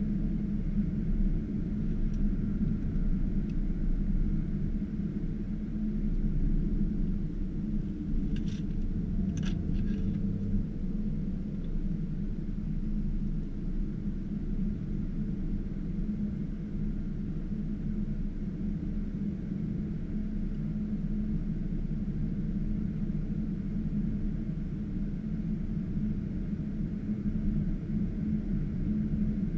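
BMW 730d xDrive (G11) under way at a steady pace: an even, low rumble of its 3.0-litre inline-six diesel and road noise, with no revving. A few brief clicks come about eight to ten seconds in.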